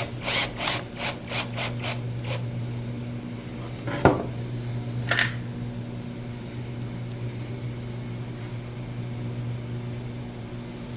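Workbench handling noise after drilling: a run of short scraping strokes that slow and die away over about two seconds, then a knock and a sharp click, over a steady low hum.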